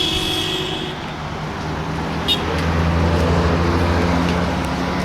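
Street traffic: a steady high tone, like a car horn, stops about a second in, then a vehicle's engine hum swells as it passes close and eases off near the end. One sharp click about two seconds in.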